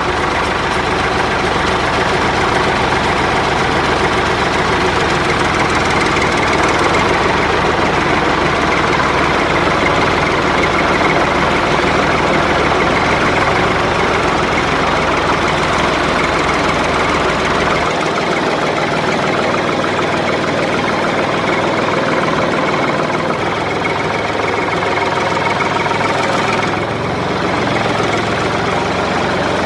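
An engine-like motor running steadily, with a low rumble that drops away about two-thirds of the way through.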